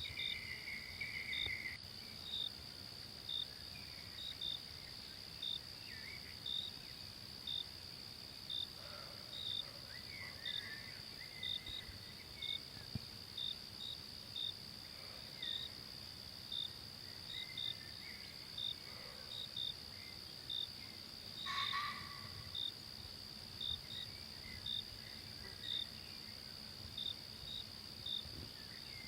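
Forest ambience of insects: a steady high-pitched drone with short, regular chirps more than once a second, like crickets. Faint bird calls come and go, with one brief louder call a little past the middle.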